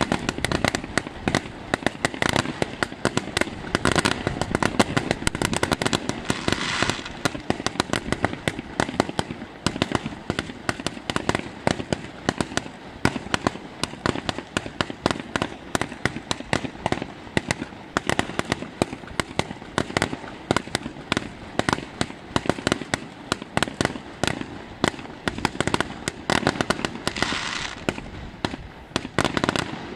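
Aerial fireworks bursting in a dense, continuous barrage of bangs, many a second, thinning slightly after the first third. A brief hiss shows near the end.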